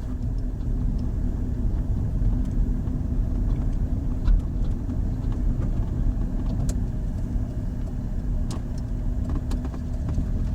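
Car cabin noise while driving: a steady low rumble of engine and tyres on the road, with a constant low hum and a few faint clicks.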